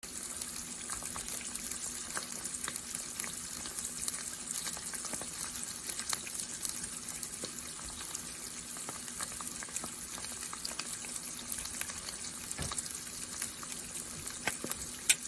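Food frying in hot oil in a pan: a steady sizzle dotted with small crackles and pops, and one sharper pop near the end.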